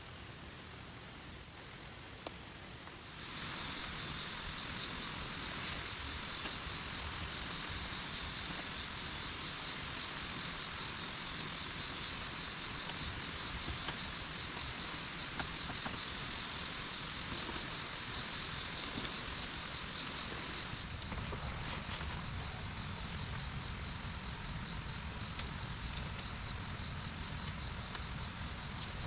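Forest ambience: a fast, steady insect trill with short high chirps repeating every second or so, over a steady hiss. It comes in about three seconds in.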